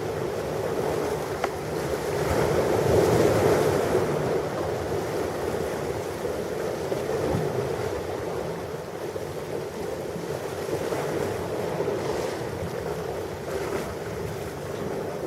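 Ocean surf: a wave washes in, loudest about three seconds in, then a steady rushing of breaking water that slowly eases off.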